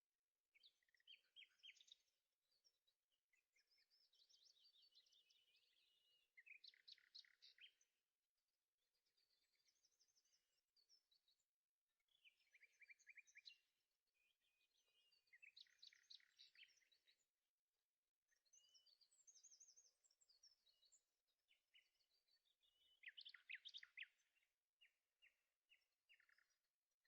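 Faint birdsong: phrases of quick chirps and rapid trills, each a second or two long, with short pauses between.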